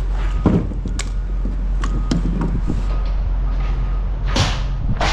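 A steady low mechanical hum, with scattered sharp clanks and knocks of scrap metal being handled.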